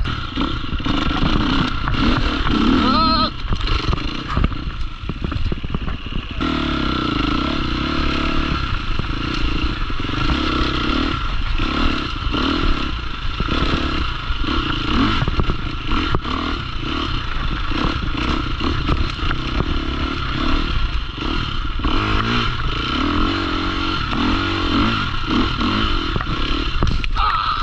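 Dirt bike engine running and revving, the pitch rising and falling with the throttle, with a rising rev about three seconds in.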